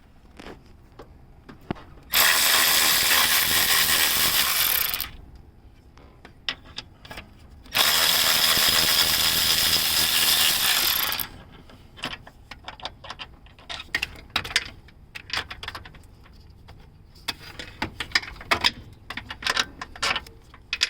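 A power tool runs twice, for about three seconds each time, backing out the 14 mm engine-mount bolts. Short metallic clicks and clinks of bolts and tools being handled follow.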